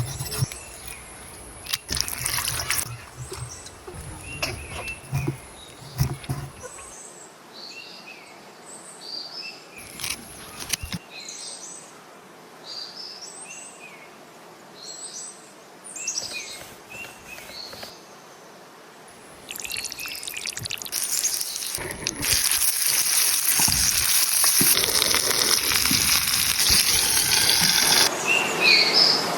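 Small birds chirping outdoors with short repeated calls, with a few knocks early on. About two-thirds of the way through, a loud, steady liquid hiss sets in and continues, like oil sizzling or water running, over the fish being cooked.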